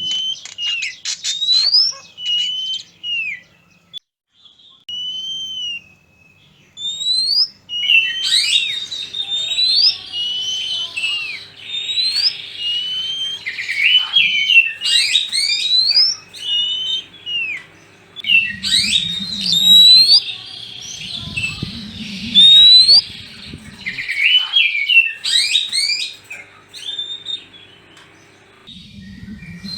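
Oriental magpie-robin (kacer) singing a fast, varied run of loud whistled phrases, many of them sharp rising and falling slurred notes, with a short pause a few seconds in.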